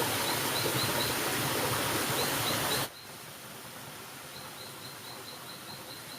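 Outdoor forest ambience: a steady rushing noise that cuts off abruptly about three seconds in, leaving a quieter hush. Over both parts, short high chirps repeat rapidly, a few per second.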